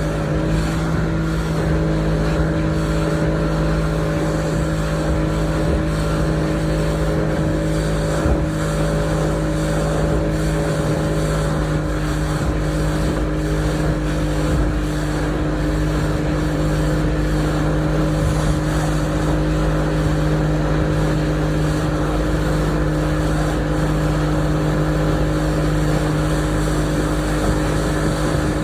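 Motorboat engine running steadily at an even pitch, with wind and water noise around it.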